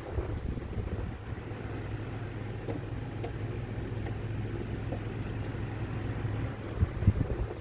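A motorhome engine running steadily after an eight-year sit, kept going with starting fluid. A few louder knocks come about seven seconds in.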